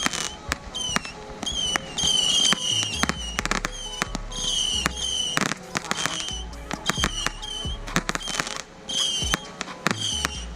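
Consumer firework cake firing: an irregular series of sharp pops and bangs, some coming in quick clusters, loudest near the middle.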